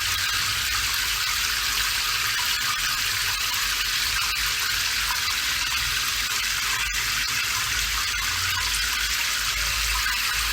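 Steady rain falling, an even hiss with a few faint drip-like ticks.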